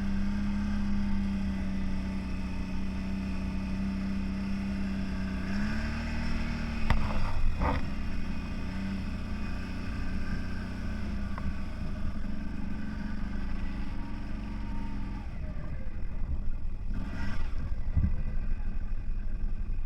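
A CFMOTO 1000 off-road vehicle's engine runs at a steady pitch, dipping and rising briefly about six seconds in, with a couple of knocks soon after. About fifteen seconds in the steady engine tone drops away and rougher, uneven noise follows.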